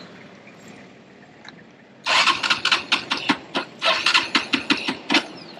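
Motorbike engine being started: from about two seconds in it sputters through a run of uneven firing pulses for about three seconds, struggling to start, then dies away.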